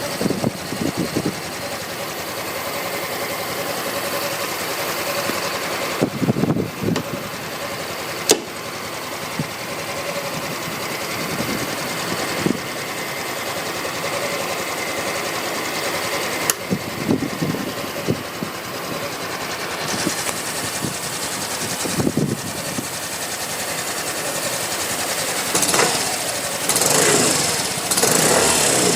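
Yamaha Axis Z's 125cc single-cylinder Blue Core fuel-injected scooter engine idling steadily, with a few sharp clicks. It grows louder near the end.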